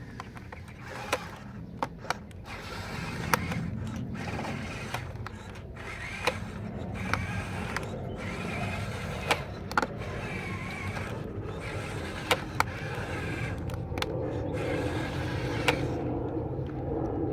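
Small electric motors and gearboxes of radio-controlled construction models whirring steadily, with scattered sharp clicks.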